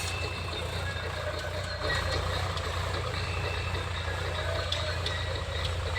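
Swaraj tractor's diesel engine running with a steady low drone.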